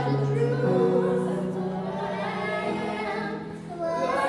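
A choir singing in parts, with wavering melody lines over held low notes; the low chord changes about half a second in.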